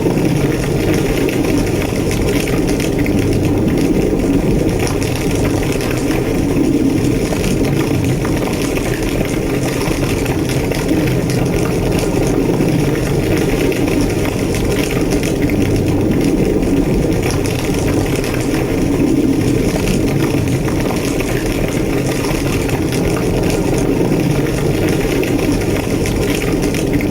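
A large fire burning steadily: a continuous low roar with a scattering of faint crackles, the sound of a big burning structure.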